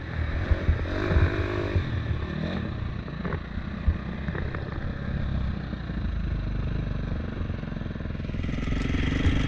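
Motocross dirt bike engine running with changing revs among low knocks and rattles. It settles into a steadier note midway and rises again near the end.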